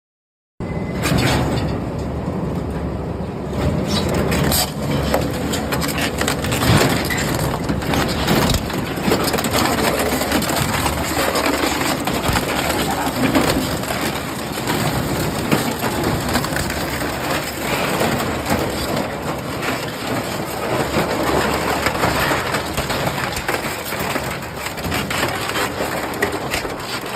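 Industrial shredder grinding and crushing metal scrap, a dense continuous din full of cracks and snaps that starts abruptly about half a second in.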